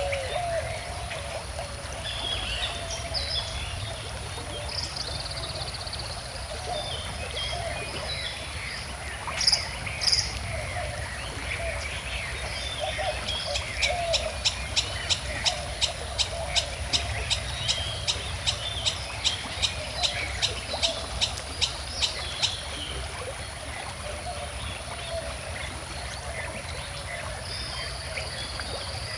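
Steady rushing of a flowing stream with several birds singing and chirping. Partway through, one sharp note repeats about three times a second for some eight seconds.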